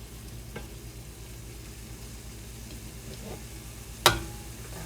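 Stovetop cooking: a steady low hum with a faint sizzle from the pan, light taps about half a second and three seconds in, and a sharp clank of cookware with a brief ring about four seconds in.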